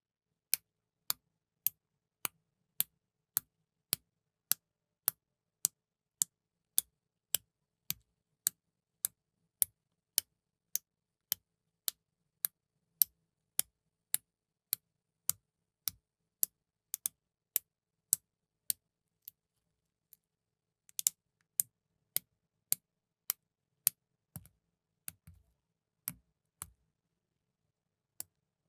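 LEGO plastic pieces clicking together, one sharp click about every half second in an even rhythm, with a short pause past the middle and a few softer knocks near the end.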